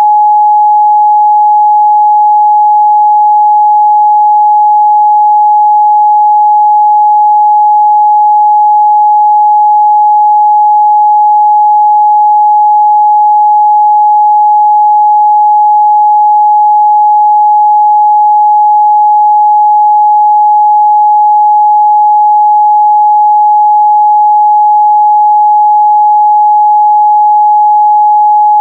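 A pure 841 Hz sine-wave test tone, one steady unchanging pitch held at a constant loud level, used to check speaker and headphone response in the midrange.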